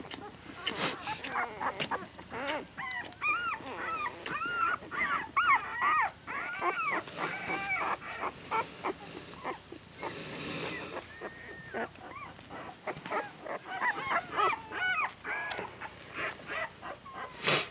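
Week-old newborn puppies squealing and whimpering in many short, high cries that rise and fall in pitch, one after another, with a brief rustle about ten seconds in.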